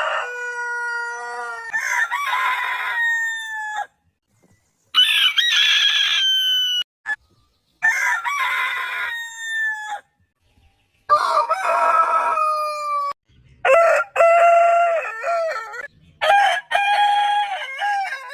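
Roosters crowing, about six long crows one after another with short silent breaks between them, most trailing off in a drawn-out falling note.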